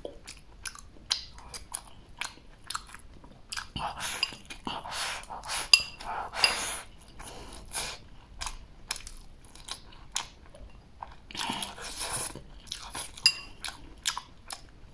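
Close-up chewing and crunching of mouthfuls of rice and stir-fried green chili peppers, with short clicks of chopsticks against a ceramic bowl throughout.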